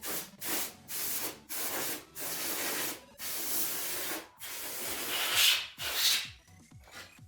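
Repeated abrasive rubbing strokes by hand on part of an old desktop PC's case, about eight back-and-forth strokes each lasting under a second to about a second, easing off near the end.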